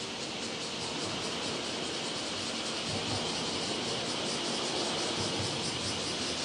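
A distant EF210 electric locomotive hauling a freight train approaches, a low rumble growing slowly louder. Over it runs a steady, high-pitched insect chorus with a fast, even pulse.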